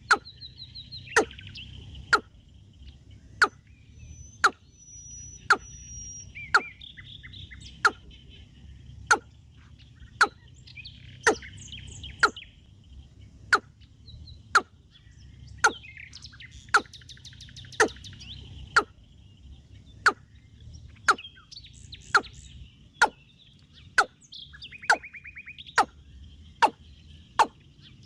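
Small birds chirping and twittering in short calls and trills. Over them a sharp click repeats evenly, about once a second.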